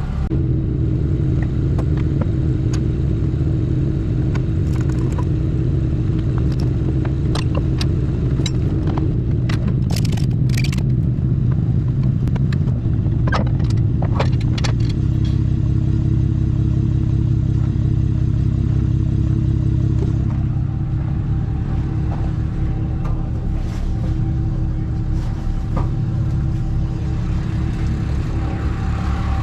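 Vehicle engine idling steadily, its pitch settling slightly lower about halfway through, with a run of sharp clicks and rattles in the first half.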